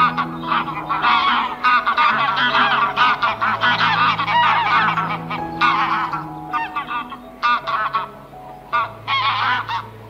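Domestic geese honking: rapid, overlapping calls, densest over the first seven seconds, then in short clusters near the end.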